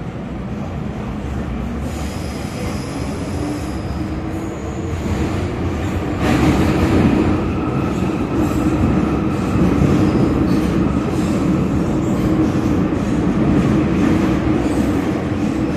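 MTR M-Train heard from inside the car while running: steady rumble of wheels on rail with motor hum, a faint high whine in the first few seconds, growing louder about six seconds in.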